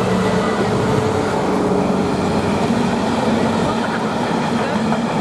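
Class 66 diesel freight train passing close by, its engine running with a steady drone over the continuous noise of the wagons on the rails.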